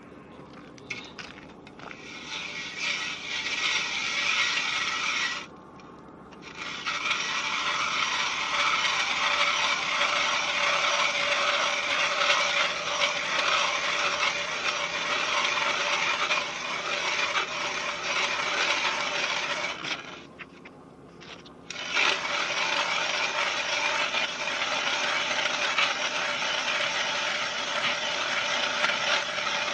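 Ice auger boring a hole through lake ice, a steady grinding scrape that stops briefly twice.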